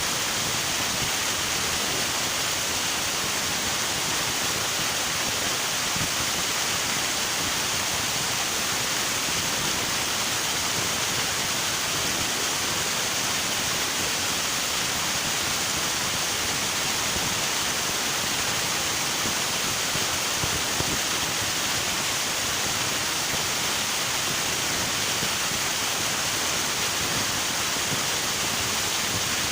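River water rushing over rocks, a steady, unbroken hiss of flowing water.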